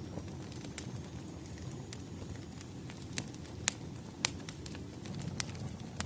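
Wood fire crackling: a steady low rumble of burning logs with scattered sharp pops, two of them louder a little past the middle.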